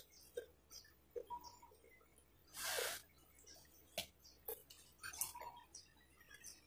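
Faint eating sounds: a few light clicks and lip smacks as food is chewed and fingers are licked, with a short rush of noise about three seconds in.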